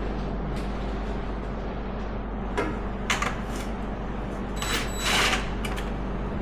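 A steady low electrical hum, with a few short rustles and clicks from parts or tools being handled: one about two and a half seconds in, another at three seconds, and a longer rustle around five seconds.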